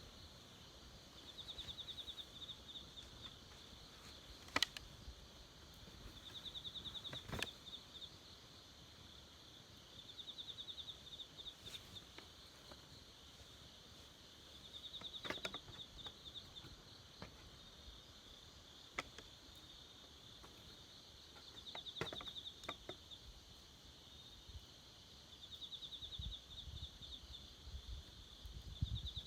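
A faint outdoor scene where a high, rapidly pulsed trill of about a second and a half repeats every few seconds, from an insect or bird calling. A few single sharp pops from a crackling campfire sound in between, and there is some low rumbling near the end.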